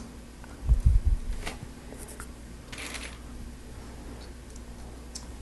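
Lego Technic plastic parts being handled and fitted by hand: a few low thuds about a second in, scattered light clicks, and a short rustle near the three-second mark.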